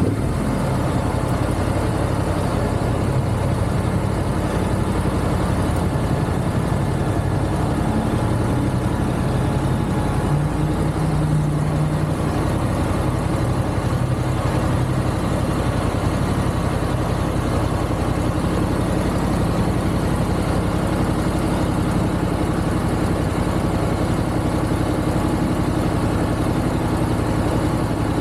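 Motorcycle engine running steadily at a cruise, its pitch holding level throughout, over a constant rush of wind and road noise.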